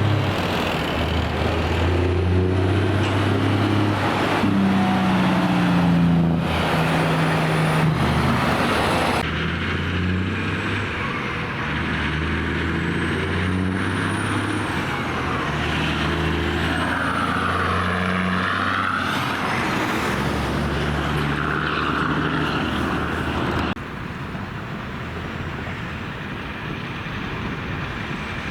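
Heavy diesel truck engines running past, their note stepping up and down in pitch. The sound changes abruptly about nine seconds in and again near the end.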